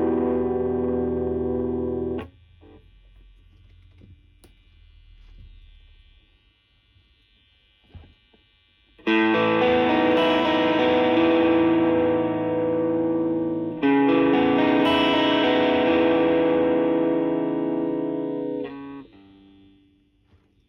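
Electric guitar through a Suhr Shiba Drive Reloaded, a Tube Screamer-style overdrive pedal, with a warm, mid-heavy overdriven tone. A ringing chord is cut short about two seconds in, then after a pause two more chords are struck, about nine and fourteen seconds in, and left to ring out.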